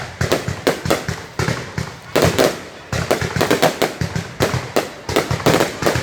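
Fireworks going off: a rapid, uneven string of sharp bangs, several a second, each trailing off briefly.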